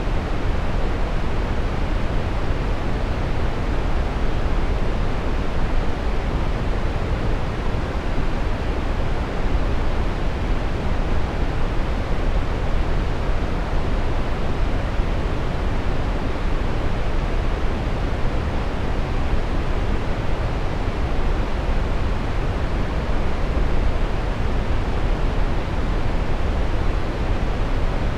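Steady, unchanging brown noise: a deep, even rushing hiss, strongest in the low end and dull in the highs.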